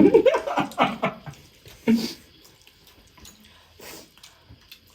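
Wet eating sounds: noodles slurped in short bursts, with small mouth and utensil clicks.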